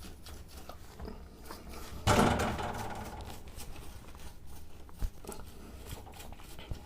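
Handling noise from the Naumann 65 vintage sewing machine's mechanism being turned by hand. A louder clatter comes about two seconds in and fades over about a second, and a short click follows near five seconds.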